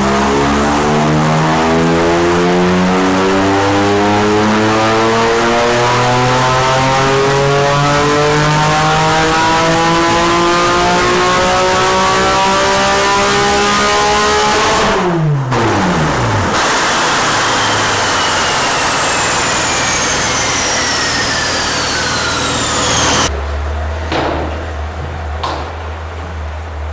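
Porsche 997 GT3 RS flat-six through a straight-pipe exhaust under full load: the revs climb steadily for about fifteen seconds, then the throttle closes and the revs fall away sharply. A high whine then falls slowly in pitch, and the engine settles to a low idle with a couple of sharp pops near the end.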